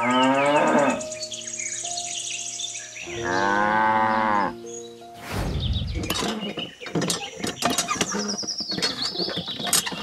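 Two long cow moos played as sound effects over toy cattle, one at the start and one about three seconds in, with pitch falling at the end of each. About five seconds in comes a whoosh, followed by a run of small clicks and taps.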